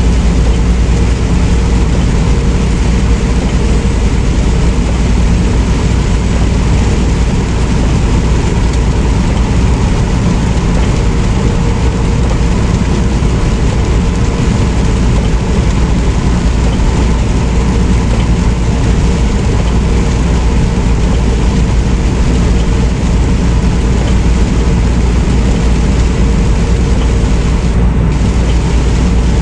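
Steady engine and road rumble of a semi truck driving, heard from inside the cab, with a faint steady hum over the low rumble.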